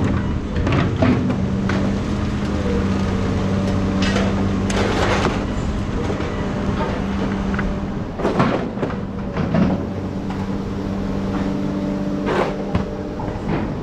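A steady engine or motor hum runs throughout, with scattered metallic knocks and clanks, as from tools and scrap metal being worked.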